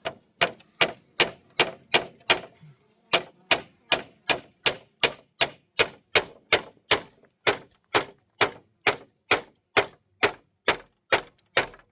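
Hammer blows on wood, about three strikes a second, steady and even, with one short break early on before the hammering resumes.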